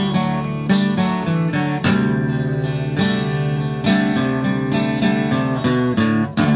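Acoustic guitar strumming chords in an instrumental passage of the song, with a sharp strum about once a second.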